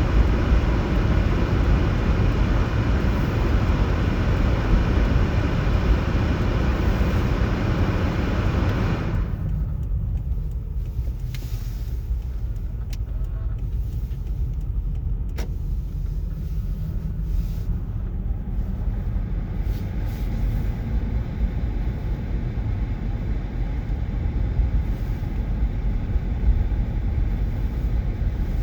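Road vehicle on the move: a steady low rumble with a broad hiss of road and tyre noise. The hiss drops away sharply about nine seconds in, leaving mostly the low rumble, and partly comes back in the last few seconds.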